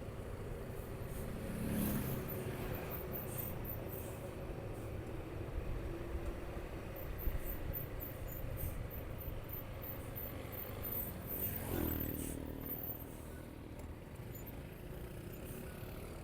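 Motorcycle running at road speed with steady engine, wind and road noise. There are two brief louder swells, about two seconds in and again near twelve seconds.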